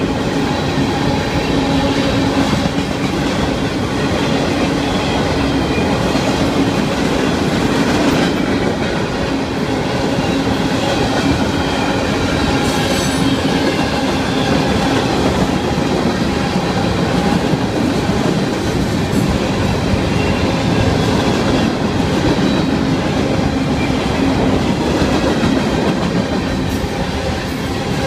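Florida East Coast Railway freight cars (covered hoppers, tank cars and boxcars) rolling past close by: steady, loud wheel-on-rail noise with a low hum that holds throughout.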